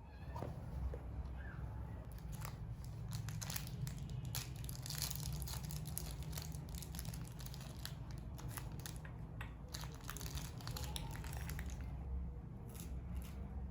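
Crinkling and rustling of something like paper or plastic wrapping being handled, with many small irregular crackles, busiest through the middle and easing off near the end.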